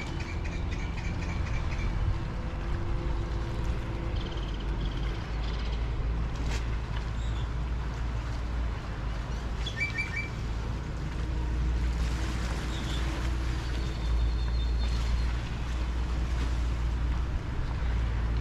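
Seaside harbour ambience: a steady low rumble of wind and water, with small birds chirping and trilling on and off — a quick run of notes at the start, short chirps around the middle and a few high notes later.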